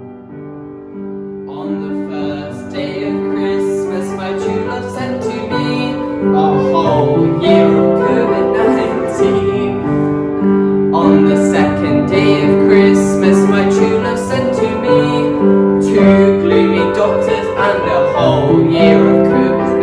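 Piano music on an upright piano, a quiet passage that grows louder and fuller about a second and a half in.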